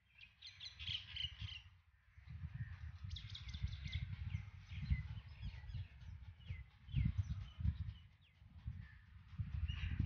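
Several birds chirping and calling in quick, short notes, over a low, uneven rumble.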